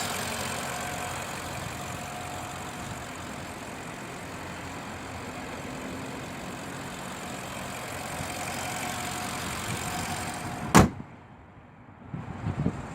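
BMW 650i Gran Coupe's twin-turbo V8 idling steadily. About 11 seconds in, a car door shuts with one loud thud, and the engine then sounds much quieter, as if heard from inside the closed cabin.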